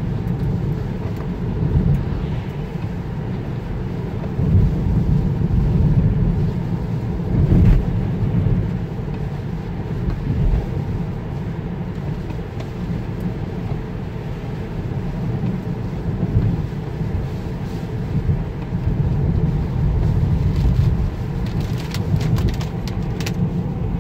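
Tesla Model 3 driving on a wet road, heard from inside the cabin: a steady low tyre and road rumble with no engine note, swelling and easing as it goes. A few faint clicks come near the end.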